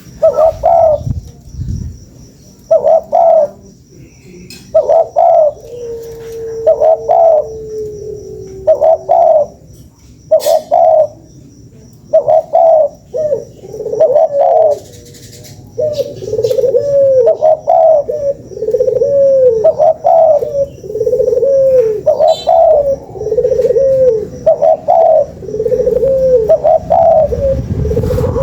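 Spotted dove (tekukur) cooing over and over, a run of short rising-and-falling coos about once a second, sounding as a lure call to draw in other doves.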